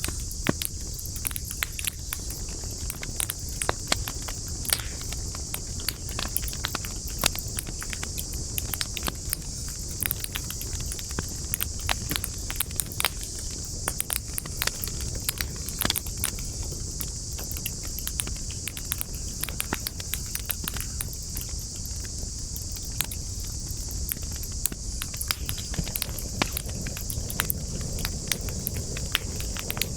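Wood campfire crackling, with frequent irregular pops and snaps over a low steady rumble of burning.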